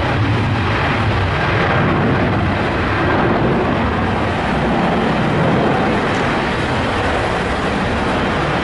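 A Boeing 777's twin jet engines at takeoff thrust during a departure: a loud, steady rumble.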